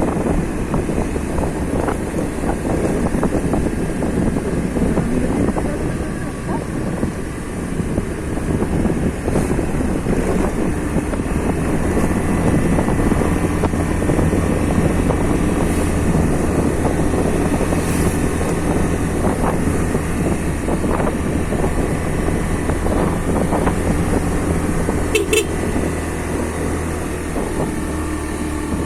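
Motorcycle engine running at a steady pace while riding, with wind noise on the microphone.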